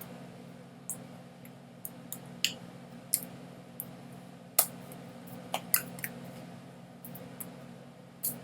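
Scattered short, sharp clicks at irregular intervals, about one to two a second, over a steady low hum.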